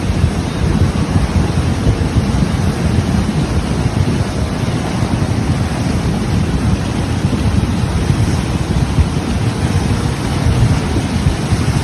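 Storm wind blowing hard across the microphone: a loud, steady rush with a heavy low rumble that rises and falls in gusts.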